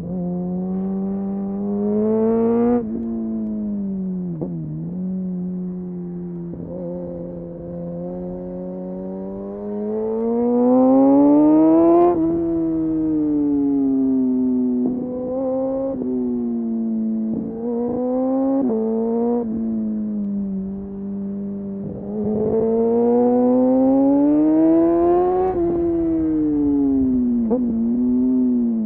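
Kawasaki Ninja motorcycle engine through an Arrow exhaust with the dB killer removed, pulling through the gears. The revs climb and fall repeatedly, with quick gear changes cutting the pitch sharply several times, and the loudest pulls come about ten seconds in and again after about twenty-two seconds.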